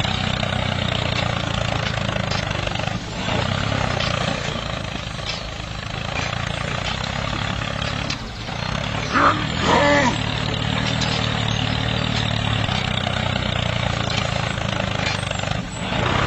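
Small engine of a homemade mini tractor running steadily, with its hum dipping briefly a few times.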